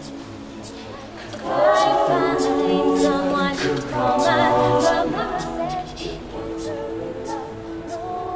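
A choir singing a cappella, several voices holding sustained notes together. The singing swells louder about a second and a half in and eases off again after about five seconds.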